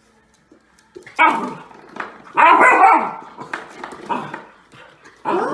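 A dog barking several times after a quiet first second, with the longest and loudest bark about halfway through.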